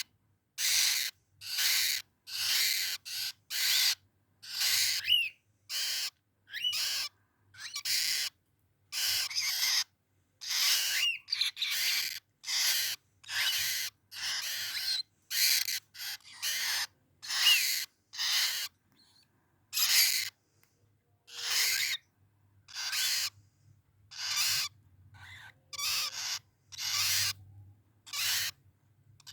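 Birds giving harsh, hissing screech calls over and over, roughly one a second, each under a second long, with a faint chirp now and then.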